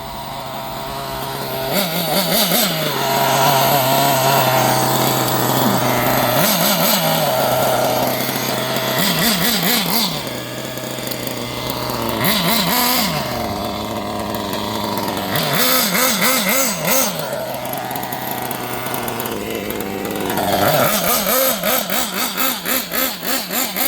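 Kyosho nitro RC buggy's small glow-fuel engine running freshly started, idling with a steady note and blipped up in revs about six times. Near the end the idle turns into a fast, uneven flutter. The engine is still being broken in.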